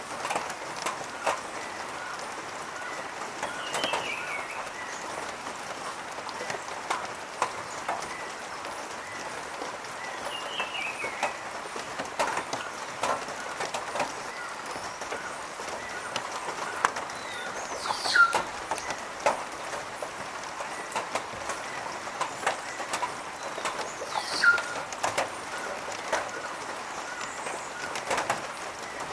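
Birds calling at a cloud-forest feeding spot. A short chattering phrase comes back about every six seconds, and two louder, sharp calls come about two-thirds of the way through. Scattered small clicks and taps run throughout.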